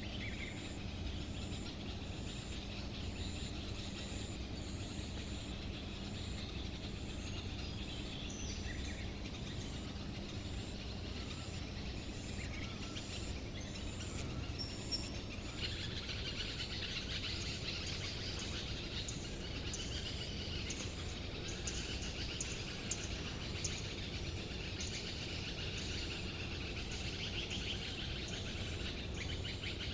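Outdoor garden ambience: birds chirping and singing over a high, evenly pulsing insect call and a steady low rumble. The birdsong grows busier about halfway through.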